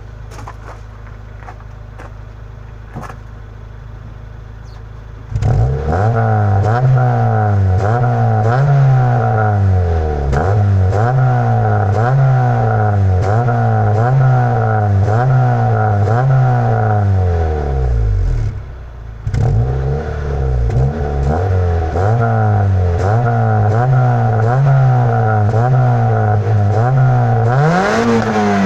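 Honda Civic EG4's 1.5-litre four-cylinder engine heard through its stock exhaust: idling steadily, then from about five seconds in revved up and let fall again over and over, about one rev every second and a half. It drops back briefly about two-thirds of the way through, and near the end it climbs higher.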